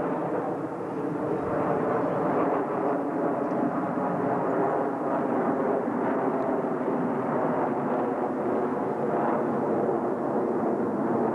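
Jet engines of a Blue Angels formation flying overhead, a steady rushing jet noise that holds at an even level.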